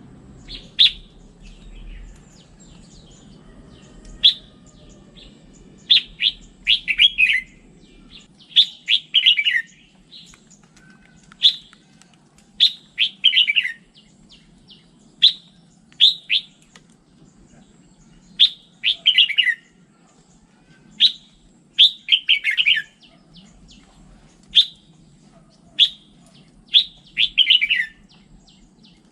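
Red-whiskered bulbul singing: short, sharp notes and quick falling phrases repeated every second or two.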